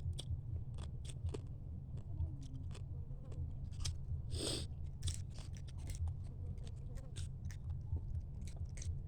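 Close-up eating of mud crab: irregular sharp clicks and crunches of shell being cracked and chewed, with a longer hiss about halfway through, over a steady low hum.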